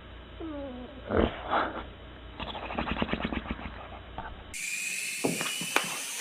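A pet's vocalizing: a short falling call, two louder cries, then a run of rapid pulsing sounds. After that come a few sharp clicks.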